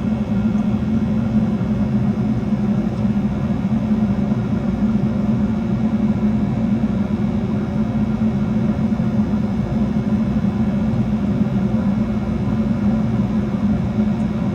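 American Standard gas furnace running steadily during a combustion test, its burners firing and its fans going with an even low drone.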